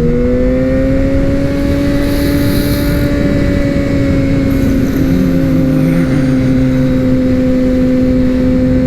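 Sport motorcycle's inline-four engine running at steady cruising speed under a heavy rush of wind noise. The engine note jumps up in pitch at the start, then holds nearly level, easing slightly about halfway.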